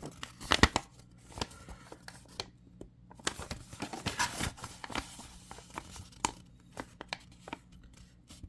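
Paper and cardboard packaging rustling and crinkling as a paper instruction manual is handled and pulled out of the box, with scattered sharp clicks and taps coming in irregular bursts.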